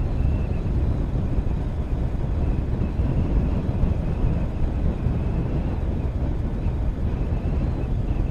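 Motorcycle on the move at a steady speed: a steady low rumble of engine and road/wind noise, with a faint thin high whine running through it.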